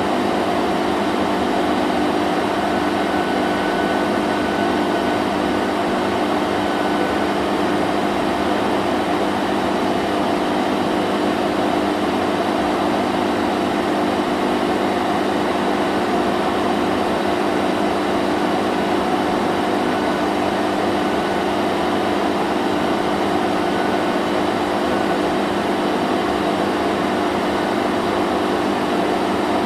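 Vacuum cleaner running continuously, a steady motor drone with a constant hum and airflow rush that does not change.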